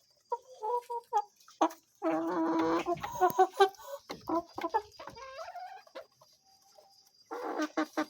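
Chickens clucking as they feed, a run of short calls with one longer, drawn-out call about two seconds in and a brief lull near the end.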